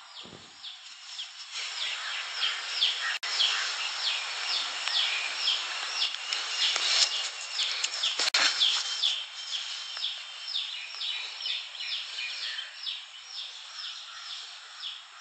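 Small birds chirping rapidly and repeatedly, a quick run of short falling chirps, two or three a second, over a steady background hiss.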